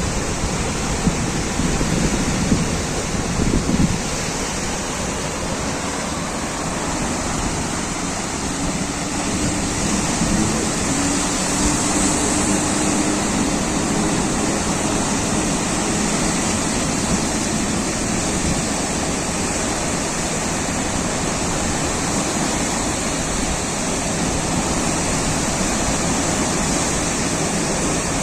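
Sea waves breaking and washing in a steady wash of surf, with wind buffeting the microphone in gusts for the first few seconds.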